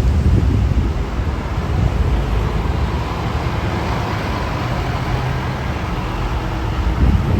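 Road traffic passing close by: engine rumble and tyre noise, loudest at the start and swelling again briefly near the end.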